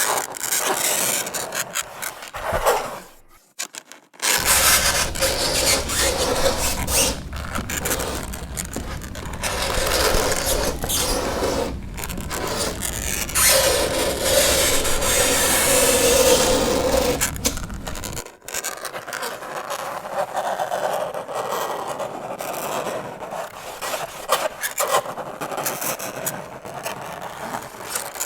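Fingernails scraping across a chalkboard in repeated strokes with short breaks, with a screechy squeal during one long stroke about halfway through. A low hum sits under the scraping for much of the first two-thirds.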